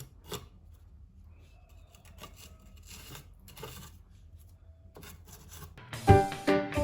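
Faint scraping and light knocks of hand masonry work, mortar being worked around concrete blocks and bricks. Background music comes in loudly near the end.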